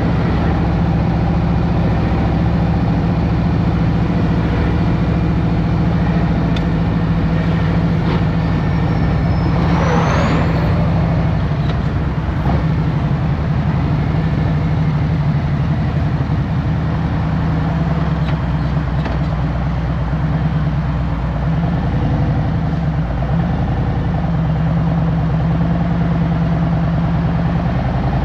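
2023 Harley-Davidson Road Glide Special's Milwaukee-Eight 114 V-twin running steadily at an even pitch. A brief hiss with a rising sweep cuts in about ten seconds in.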